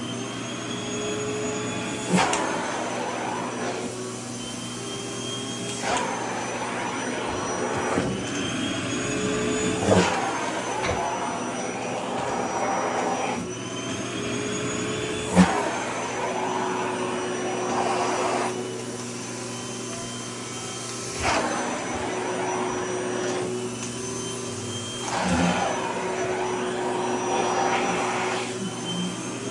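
Vacuum cleaner running while it sucks in a fabric dress, its motor whine rising and falling in pitch every few seconds as the airflow changes. A few sharp knocks come through, the loudest about fifteen seconds in.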